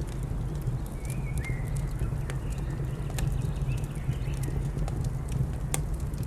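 Wood fire crackling, with scattered sharp pops over a steady low rumble. A short bird call sounds about a second in, with fainter calls a little later.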